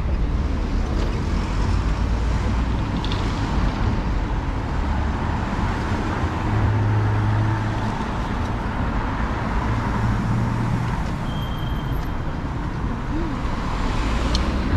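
City street traffic: cars and other road vehicles running past, a steady mix of engine hum and tyre noise.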